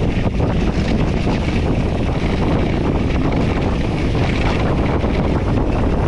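Wind rushing over the microphone and a mountain bike's tyres rolling over rough dirt trail, with many small knocks and rattles from the bike.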